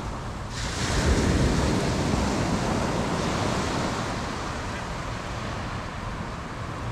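Ocean wave breaking about half a second in, then washing up the beach and slowly fading, over wind rumbling on the microphone.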